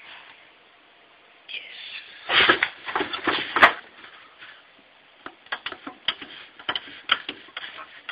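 Hands handling hardware and its packaging: a burst of rustling with several loud knocks, then a run of sharp, irregular clicks and taps.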